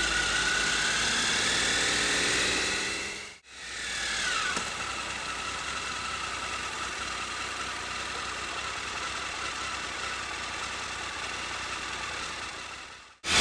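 Motorcycle engine running, its pitch rising as it accelerates; after a short break about three and a half seconds in, the pitch drops and then holds steady.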